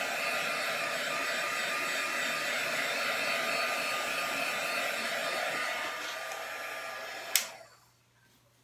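Heat embossing tool blowing hot air steadily, then switched off with a sharp click near the end as its fan winds down.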